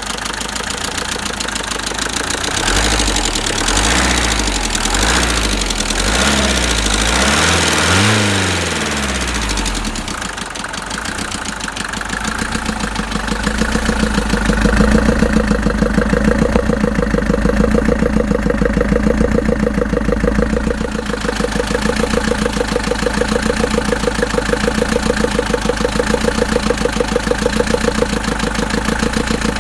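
Mercedes-Benz OM601 four-cylinder diesel engine revved up and down several times during the first ten seconds, then settling into a steady idle. It is running with the knock the owner is recording.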